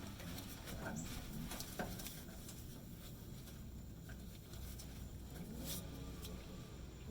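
Faint scattered clicks and light scraping of parts and tools being handled, over a steady low hum.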